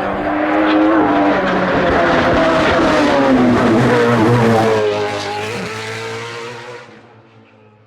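Hillclimb race car engine running hard, its pitch rising then falling away through the revs, before the sound fades out near the end.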